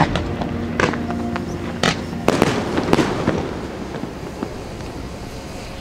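Aerial fireworks bursting: a run of sharp bangs in the first three seconds, then dying away into a softer rumble.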